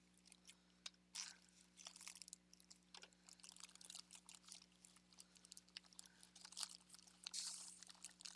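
Faint rustling and scattered light clicks of small craft embellishments being picked through and handled while sorting them into a tray.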